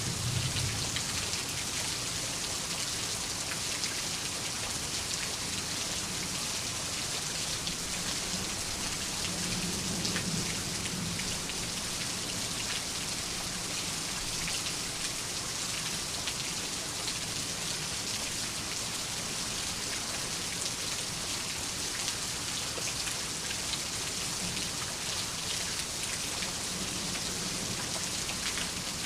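Steady rain falling, an even hiss of many drops, with a faint low rumble of thunder about ten seconds in.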